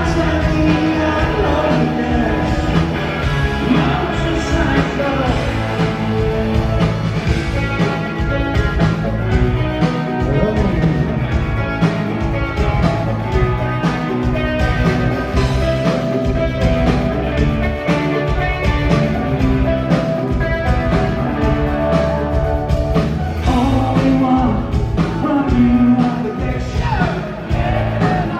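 Rock band performing live: sung lead vocal over electric guitars, bass and drums, playing continuously.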